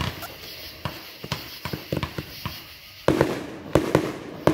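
Aerial fireworks going off: a run of sharp pops and crackles, then a cluster of louder bangs about three seconds in.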